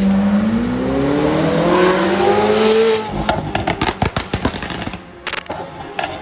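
McLaren 720S twin-turbo V8 revving through a Veleno performance exhaust, its pitch climbing steadily for about three seconds before cutting off suddenly. A string of sharp cracks and clicks follows.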